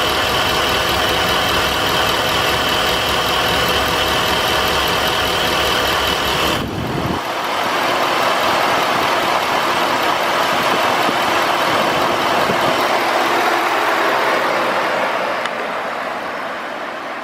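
2013 Ford F-150 pickup engine idling steadily. About seven seconds in, the deep engine sound stops abruptly. A steady rushing noise carries on and fades near the end.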